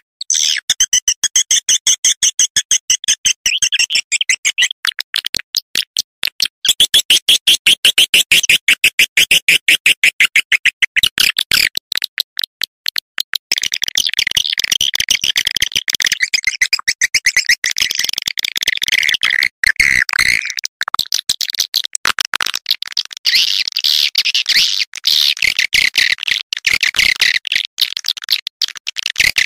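Swiftlet call-lure sound: rapid strings of high, sharp twittering chirps, chopped into quick pulses at first and running together into a denser, continuous twitter from about halfway through.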